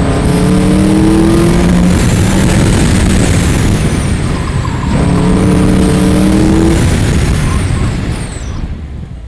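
A 1999 Mazda Miata's 1.8-litre four-cylinder engine run hard, accelerating twice with its pitch rising each time, over steady tyre and wind noise. Near the end the engine eases off and the sound drops away.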